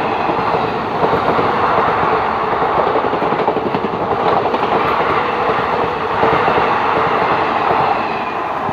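Express passenger train passing close by at high speed, the coaches' wheels rattling loudly and continuously over the track.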